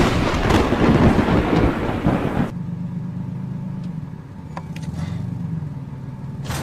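A sudden, loud rumbling noise for about two and a half seconds, then a vehicle engine running steadily, with a few faint clicks.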